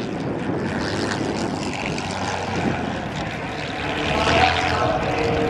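Supermarine Spitfire PR Mk XI's Rolls-Royce Merlin V12 engine running at low power as the aircraft comes in after landing, flaps and wheels down. It swells louder about four seconds in.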